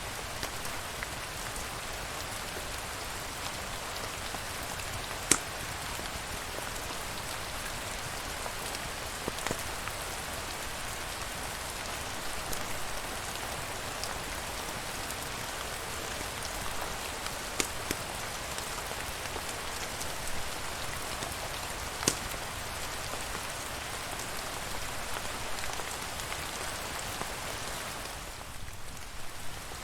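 Steady rain hiss, with a few sharp single clicks scattered through it, the loudest about five seconds in. The hiss dips briefly near the end.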